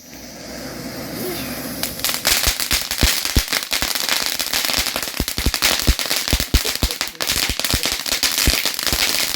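A firework hissing as it catches. From about two seconds in it breaks into a dense, irregular run of sharp crackling pops.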